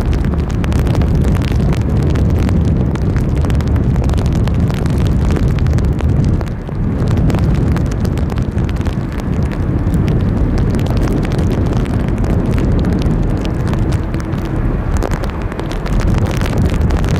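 Loud, steady low rumble of a landing Boeing 767-300's jet engines, mixed with wind on the microphone in a heavy downpour, with many small sharp clicks of raindrops throughout.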